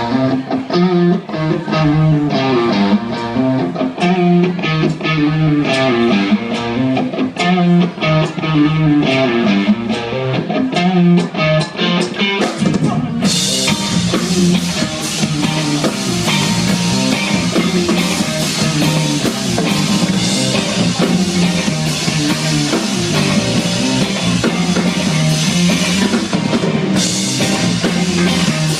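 Rock band playing live: a repeating guitar riff over drums, then the full band comes in louder with crashing cymbals about thirteen seconds in.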